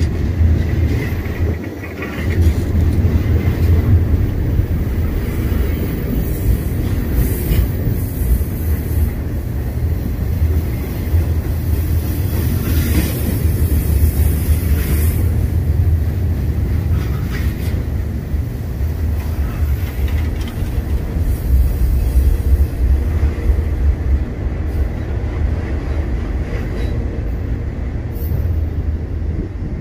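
Freight cars of a long manifest train, autoracks and boxcars, rolling past on steel rail: a loud, steady, heavy low rumble of wheels and car bodies.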